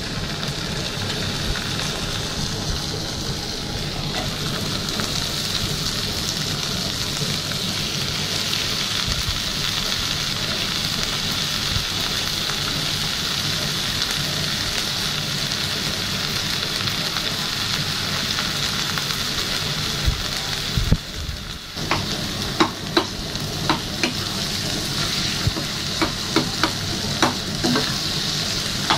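Set goat blood and chopped onions frying in oil in a nonstick pan, a steady sizzle. From about three quarters of the way in, a steel spatula clinks and scrapes against the pan in quick knocks as the mix is stirred.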